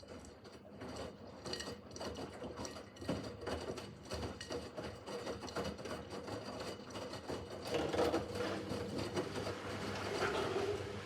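Miele W5801 washing machine running again after a pause: a steady motor hum with many small clicks and rattles, getting louder over the first few seconds.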